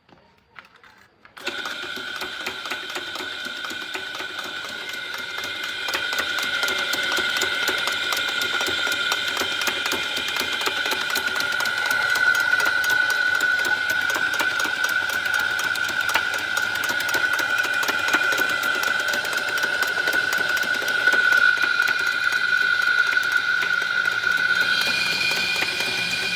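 A small electric-motor-driven machine starts suddenly about a second and a half in and runs steadily at high speed. It makes a constant high whine over a fast, even clicking.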